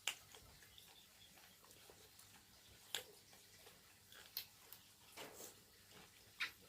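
Near silence broken by a few faint, scattered clicks, then a quick, evenly spaced run of light clicks, about four or five a second, starting near the end.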